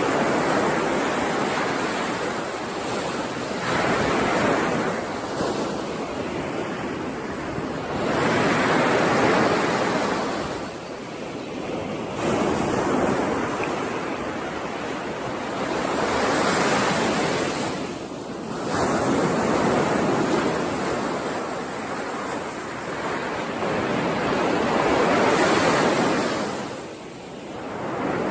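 Ocean waves breaking and washing up on a shore, each surge swelling and falling away every few seconds.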